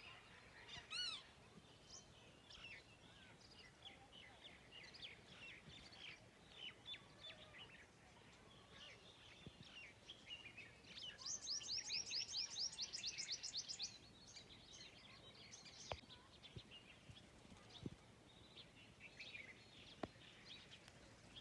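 Several small birds chirping and calling, a chorus of short high notes. About halfway through, one bird gives a fast run of repeated notes for about three seconds, the loudest part.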